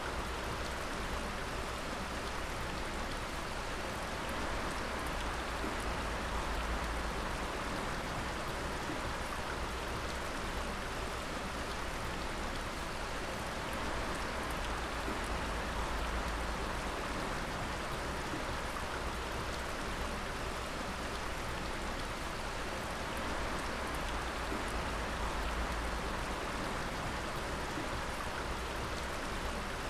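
Water dripping steadily, many drops pattering over a continuous wash of falling water, with a low rumble underneath.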